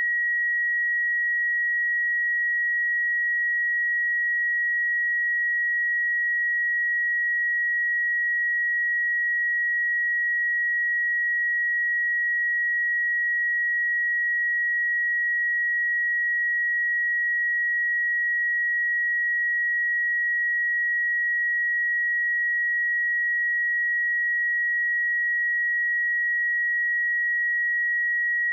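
A pure 1907 Hz sine-wave test tone, one steady high-pitched tone held at constant level throughout.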